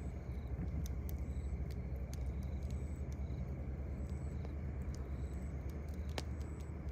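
Campfire crackling: scattered sharp pops, one louder near the end, over a steady low rumble. Short high insect chirps repeat about once a second.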